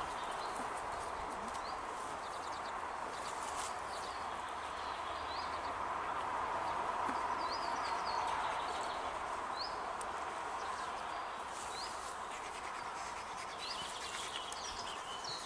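Small birds chirping now and then, short rising chirps a second or two apart, over a steady outdoor rushing noise.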